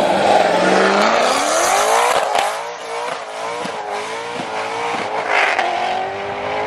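Mustang engine revving up over about two seconds and held at high revs, with tyre squeal, as in a burnout.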